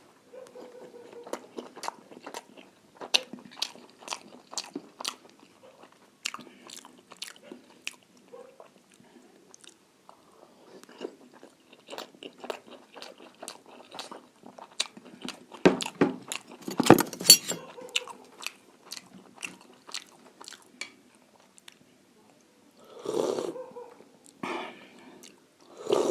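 Close-miked chewing and lip-smacking of someone eating large momo dumplings, a steady run of short wet clicks, with a louder stretch of chewing about 16 to 17 seconds in.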